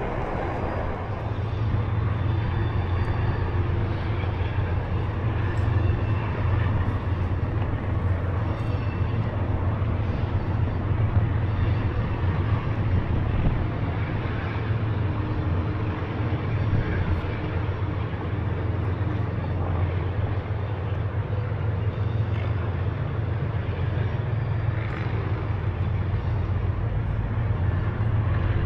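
Steady low rumble of a Onewheel electric board rolling along at riding speed, with continuous noise over it.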